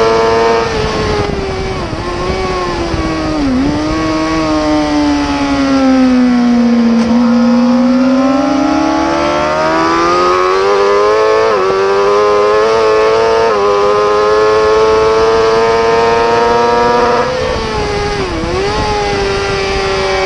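Superbike racing motorcycle engine at high revs through a lap section. About a second in, the pitch drops as it slows, with a quick blip a few seconds in. It sinks lowest about seven seconds in, then climbs back under acceleration with upshift steps around eleven and thirteen seconds. It holds high, then drops again near the end with another brief downshift blip.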